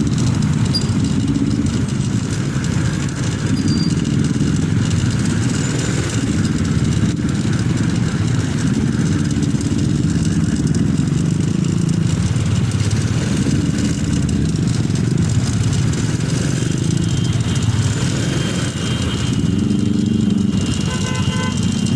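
Motorcycle engine running steadily under way, its pitch shifting a little as the revs change.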